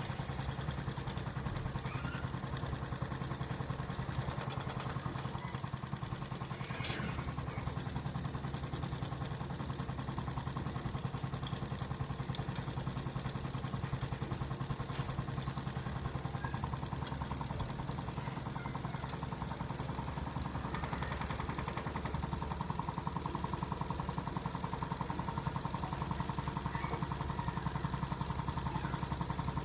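Homemade gamma-type Stirling engine running steadily, its moving parts making a fast, even mechanical clatter with a low hum.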